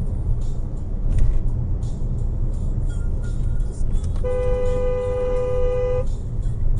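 Steady low road and engine rumble of a moving car, with one long car horn blast of about two seconds starting a little past the middle.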